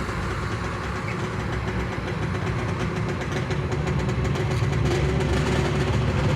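A motor vehicle engine idling steadily, growing a little louder in the second half.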